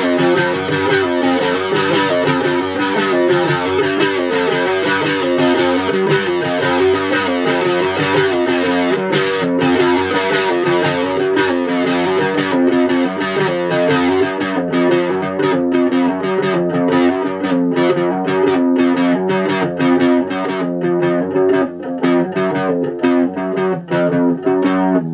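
Electric guitar played through distortion, strumming chords in a steady driving rhythm, the strokes growing choppier in the second half; it stops abruptly at the end.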